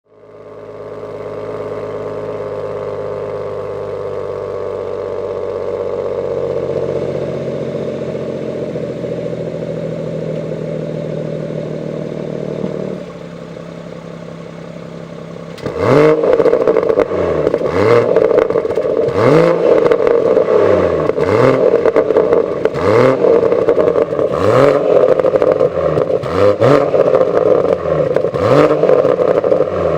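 BMW M140i's turbocharged straight-six idling through a BCS Powervalve cat-back exhaust, the drone stepping quieter about 13 s in. From about 16 s the throttle is blipped over and over, roughly one rev every couple of seconds, with crackles and pops from the exhaust as each rev falls away.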